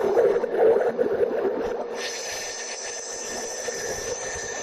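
Aircraft cockpit background noise: a steady rushing hiss from airflow and engines. About two seconds in, the sound changes and a high steady whine sets in.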